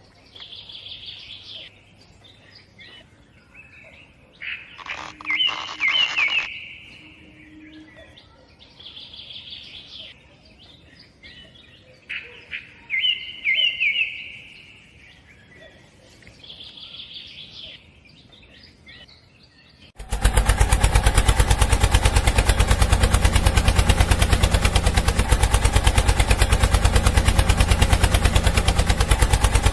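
Birds chirping now and then, then about two-thirds of the way in a small motor-driven mini flour mill starts suddenly with a loud, fast, even rattle that keeps going.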